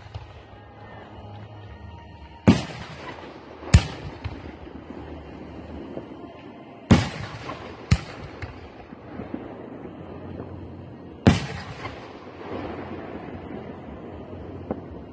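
Aerial fireworks shells bursting: about six sharp bangs at irregular intervals, with a steady noisy background between them.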